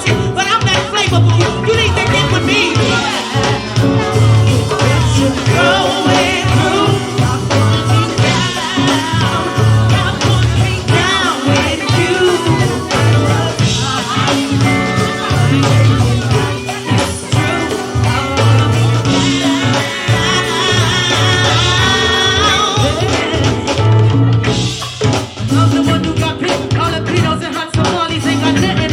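Live go-go band playing with a singer: a pulsing bass line under steady percussion, with a wavering vocal line on top.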